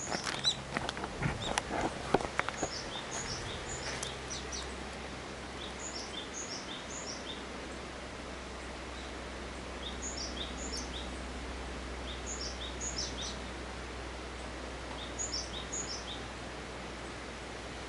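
Footsteps on a trail for the first two seconds or so, then a small bird singing a short phrase of high chirps, repeated every two to three seconds over a steady outdoor hiss.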